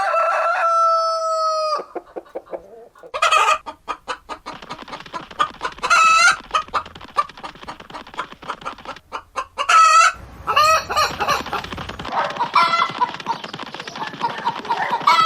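A rooster crows once in one long call, then chickens cluck steadily in quick short notes, with a few louder squawking calls breaking in along the way.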